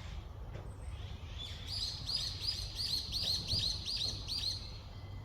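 A songbird singing a rapid run of about nine or ten identical high notes, roughly three a second, starting about a second and a half in and stopping near the end. A steady low rumble runs underneath.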